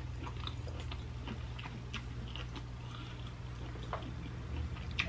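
Soft chewing and small wet mouth clicks of a person eating, scattered faint ticks over a low steady hum.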